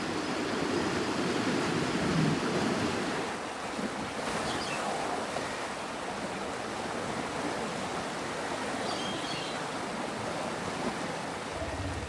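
River water rushing in a steady wash, a little fuller and louder for the first few seconds.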